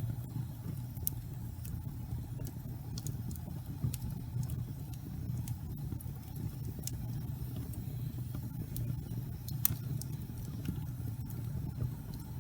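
Wood fire burning in a fireplace: a steady low rumble of flames with scattered small crackles and a few sharper pops.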